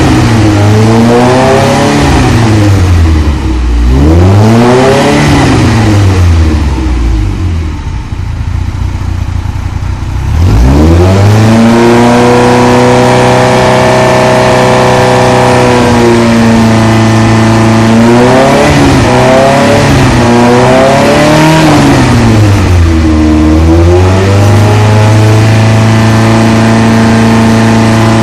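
Ferrari 308 V8 running through a Stebro exhaust: two rises and falls in revs, a drop to low revs, then a climb to a steady held speed with a few short blips and one dip.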